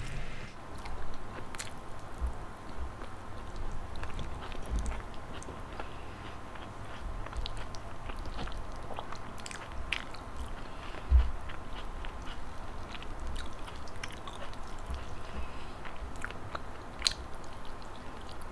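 Chewing and biting sounds of a person eating rice, salted egg and tomato, with scattered soft clicks and mouth noises and one low thump about eleven seconds in.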